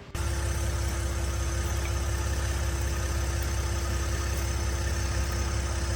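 2024 Ford F-150 engine running at idle: a steady low rumble with a steady thin ringing tone over it. This is the strange tinging noise from somewhere in the engine or transmission that has not been placed.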